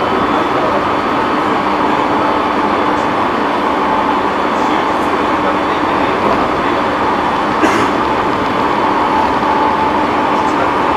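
Running noise inside a JR E217-series electric train travelling at speed: a steady, loud rush of wheels on rail with a faint held hum. There is one sharp click about seven and a half seconds in.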